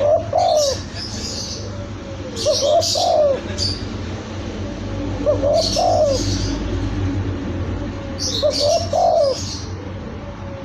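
Young spotted dove (tekukur) cooing: a short phrase of rising notes ending in a longer coo, four times, about every three seconds. High, quick chirps from other small birds sound over it.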